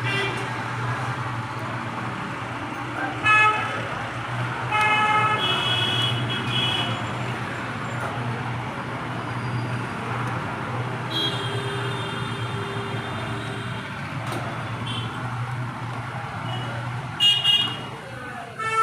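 Road traffic with vehicle horns honking several times, short blasts and a longer one in the middle, over a steady low hum.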